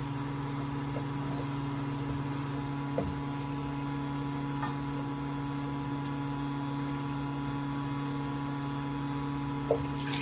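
Steady electrical hum with several constant tones, with a few faint clicks and taps.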